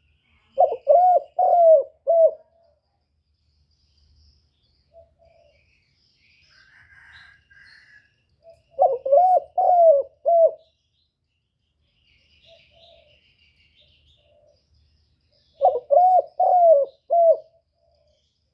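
A bird calling in three repeated phrases, each of four or five short notes, about seven seconds apart, with faint high chirps between them.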